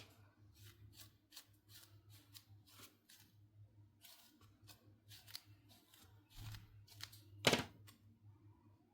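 Light rustles and clicks from hands handling small plastic toy pieces and packaging, with one louder knock about seven and a half seconds in.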